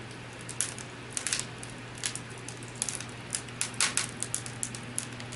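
Irregular crackling pops, several a second, over a steady low hum.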